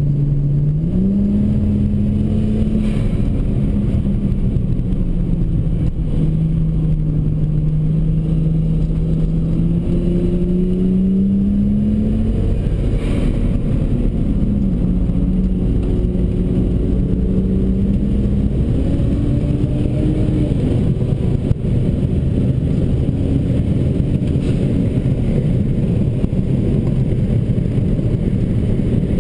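Car engine heard from inside the cabin while the car is driven hard, over a steady low rumble of road noise. The engine note climbs about a second in, holds, climbs again around ten to twelve seconds in, drops around fourteen seconds, and rises again near nineteen seconds. In the last third the engine note fades under the road noise.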